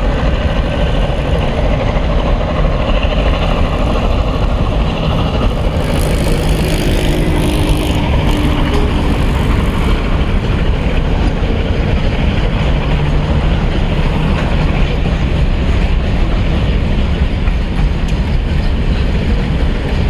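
Freight train wagons rolling past on the track: a steady, loud rumble of steel wheels on rails.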